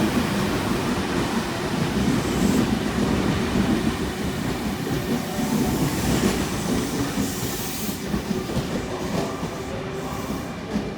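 Sydney Trains C set electric train departing and running along the track: a steady rumble of wheels on rail that grows gradually quieter toward the end as it moves away.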